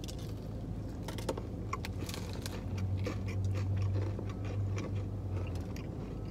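Two people biting into and chewing KFC Cheetos chicken sandwiches, with many small crunches and wet chewing sounds from the Cheetos-coated fried chicken, over a steady low hum.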